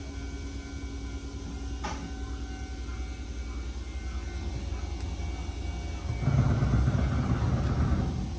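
Nankai 2200 series train heard from inside the car while running: a steady low rumble of wheels on the track with faint steady motor tones and a single click. About six seconds in the rumble grows louder and rougher for roughly two seconds, then drops back.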